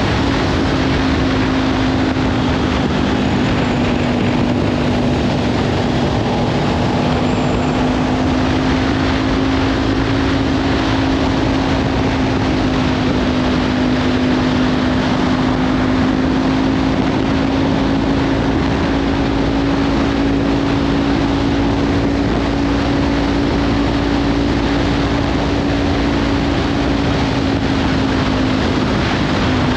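Kawasaki Ninja 500 parallel-twin engine with a Leovince slip-on exhaust, running at a steady cruise with its pitch creeping slowly up and dipping briefly near the end, under heavy wind noise on the microphone.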